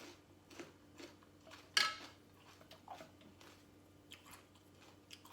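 Close-up eating sounds: chewing and crunching raw vegetables, bitter melon among them, with papaya salad. Scattered small clicks and crunches, with one sharper crunch about two seconds in.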